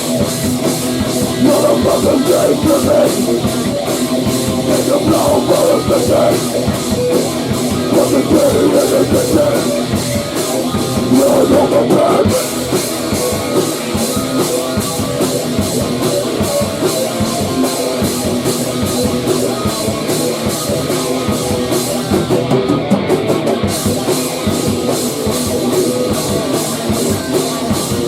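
Rock band playing grunge/hardcore: electric guitar and drum kit.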